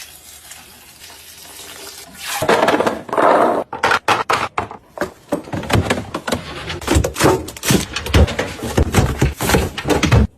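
Containers and bottles being handled and set down while a fridge is restocked: a noisy rush about two and a half seconds in, then a quick run of knocks, clinks and thuds.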